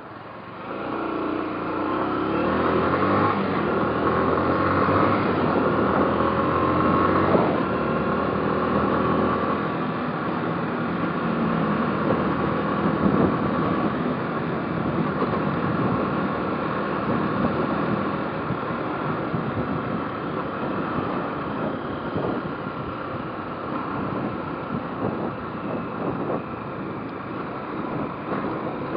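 Motorcycle engine pulling away and accelerating, its pitch rising over the first several seconds, then running steadily at cruising speed.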